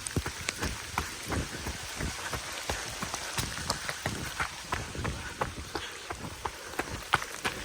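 Steady rain with many sharp, irregular taps of raindrops striking close by.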